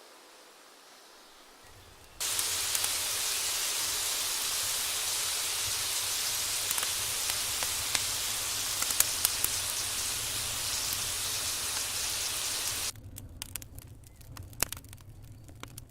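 Food frying in hot oil: a loud, steady sizzle with scattered pops that starts abruptly about two seconds in and cuts off suddenly about three seconds before the end, leaving fainter crackles.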